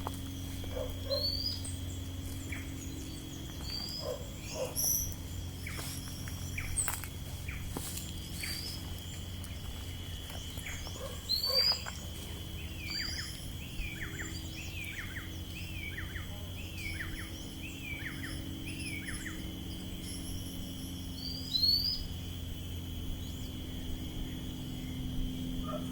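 Wild birds calling outdoors: scattered short high chirps, and in the middle a run of about eight down-slurred whistled notes, evenly spaced. A steady high insect drone runs underneath.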